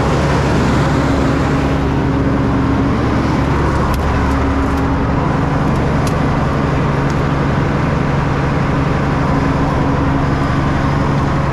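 Motor vehicle driving at a steady speed: a constant engine drone under road and tyre noise.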